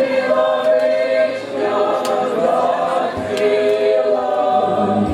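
Choir singing a Ukrainian song in long held notes.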